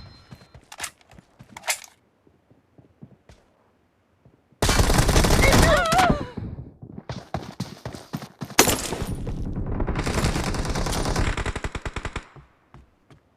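Video-game automatic gunfire: a long burst of rapid shots about four and a half seconds in, then a second long burst from about seven to twelve seconds, with one sharper bang near nine seconds.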